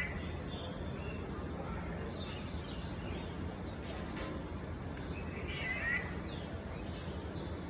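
An unidentified songbird singing short phrases of quick chirping notes, with a burst at the start and another about five and a half seconds in, and fainter scattered chirps between, over a steady low background noise.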